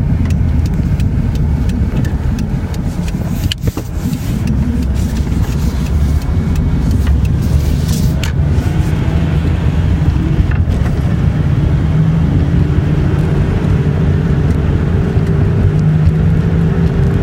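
Low rumbling from a moving 2001 Nissan Maxima with a five-speed manual. The rumble rises and falls with road speed rather than engine rpm, which the owner suspects is worn bearings or races. A faint tone rises in pitch over the last few seconds.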